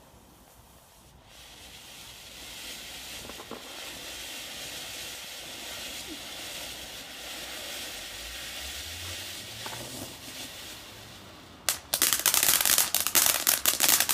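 A lit garden firework hissing steadily for about ten seconds, then near the end a sudden sharp crack and a loud, rapid crackling and popping.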